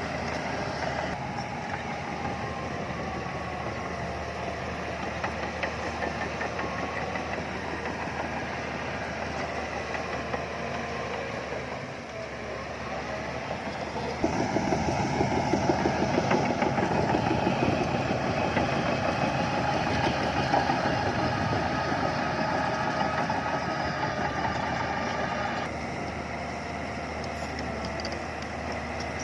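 Bulldozer's diesel engine running steadily. It grows louder and heavier for about twelve seconds in the middle, then drops back.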